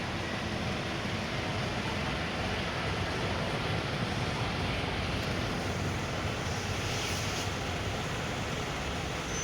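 Steady jet airliner engine noise, rising a little in the middle, with a brief high hiss about seven seconds in.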